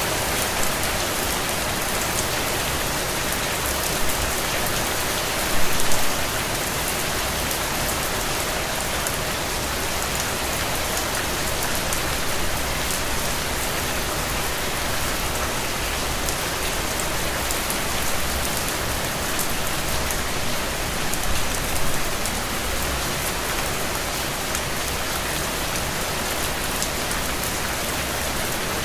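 Steady rainfall: a dense, even hiss of falling rain with individual drops hitting a surface, briefly louder about six seconds in and again about two-thirds of the way through.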